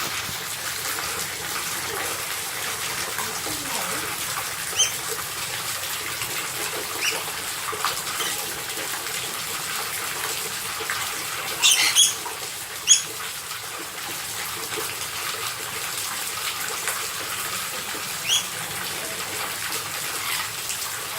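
A lory (nuri parrot) giving short, sharp high calls: single calls spaced several seconds apart, with a quick cluster of calls about midway, over a steady rushing hiss.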